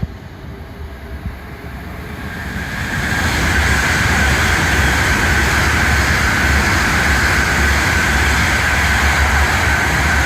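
Tohoku Shinkansen train passing through the station at high speed without stopping. A loud rushing rumble builds over about a second and a half, a couple of seconds in, then holds steady.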